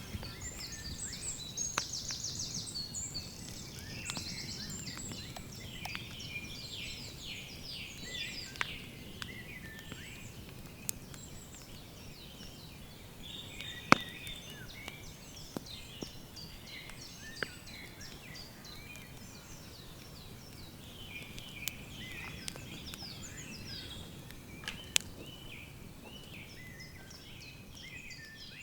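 Woodland birds singing: many short chirps and trills, busiest in the first few seconds, with a few sharp isolated clicks, the loudest about 14 seconds in.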